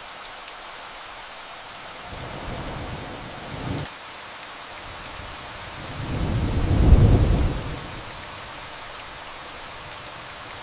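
Steady rain with thunder rumbling over it: a smaller rumble about two to four seconds in, then a louder one swelling and fading around the seventh second.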